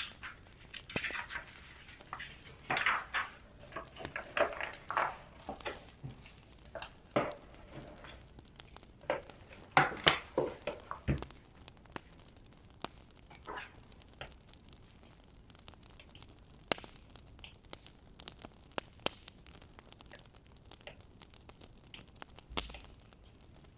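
Wood fire crackling and popping in a fireplace: irregular sharp snaps over a faint hiss, busy for about the first half and sparser after that.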